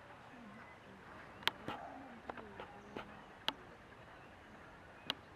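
Faint background murmur with snatches of distant voices, broken by about six sharp clicks or knocks spread through, the loudest about one and a half and three and a half seconds in.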